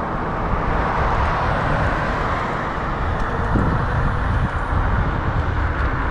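Steady rushing ride noise from an Ecotric 500-watt fat-tire electric bike on the road: wind over the microphone and the hum of the fat tyres on the pavement.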